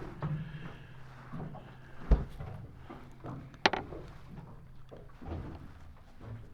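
Knocks and bumps of gear being handled on a small fishing boat: a heavy thump about two seconds in and a sharp knock about a second and a half later, with lighter knocks between, over a low steady hum.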